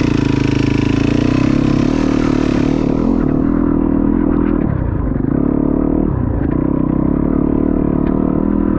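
Dirt bike motor running under a helmet-cam ride, its pitch dipping and climbing back twice, about five and six seconds in, as the throttle is rolled off and on again. A rushing hiss fades away about three seconds in.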